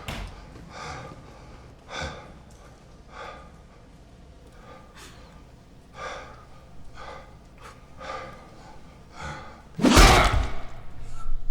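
A person's gasps and heavy breathing, coming about once a second, as in a struggle. About ten seconds in comes a much louder, sudden sound lasting about a second, such as a hit or slam.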